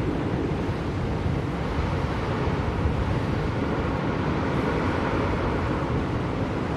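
Blizzard wind blowing steadily: a dense, even rushing noise, heaviest in the low end, with no gusts or breaks.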